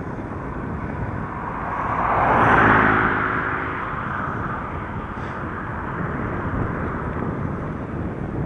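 Steady wind and road noise while riding a bicycle, with a motor vehicle passing by, swelling to its loudest a little under three seconds in and then fading away.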